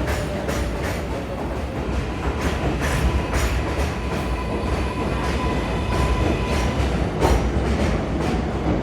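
R142A subway train running on the track, its wheels clicking over rail joints again and again over a continuous rumble, with a steady electric whine through the middle.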